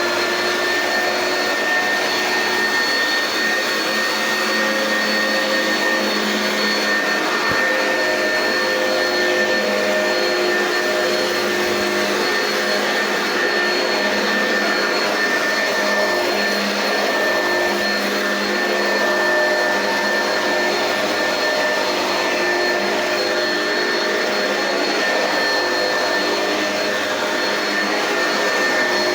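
Oreck XL Commercial upright vacuum cleaner running steadily while vacuuming: an even rush of air under a steady high-pitched motor whine.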